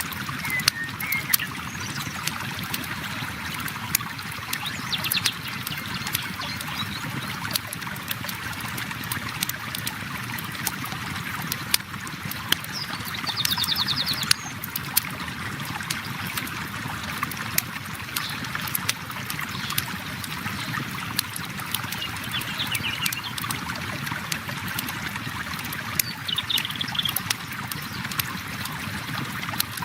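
River water flowing steadily, with a campfire crackling in sharp little pops throughout. Birds chirp a few times, most loudly about halfway through.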